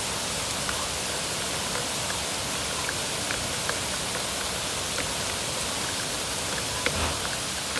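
Steady rain falling, an even hiss with scattered sharp ticks of individual drops hitting nearby surfaces, one a little louder about seven seconds in.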